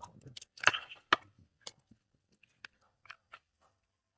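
Knife cutting up raw chicken on a cutting board: irregular knocks and clicks, loudest in the first second or so, then sparser.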